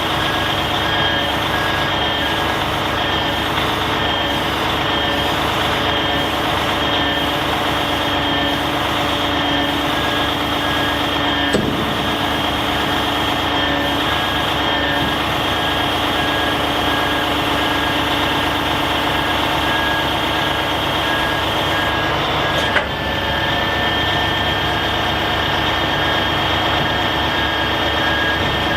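Kenworth T880 hook-lift truck running steadily, with an electronic warning alarm beeping in a fast, even repeat. Two short sharp clicks, about 12 and 23 seconds in.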